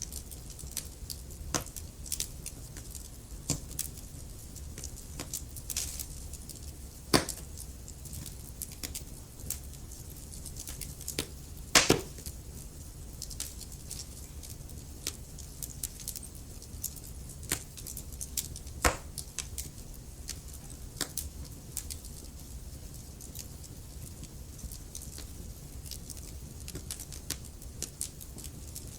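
Wood fire burning in a fireplace: a steady low rumble and hiss of the flames under irregular crackles, with sharper pops about 7 and 19 seconds in and a loud double pop about 12 seconds in.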